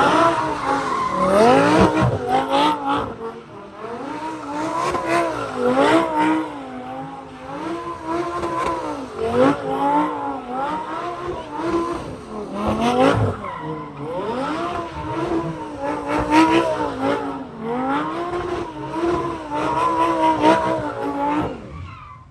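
A high-performance car engine held at high revs, its pitch wavering up and down continuously, with tyres squealing as the car does donuts. The sound fades near the end.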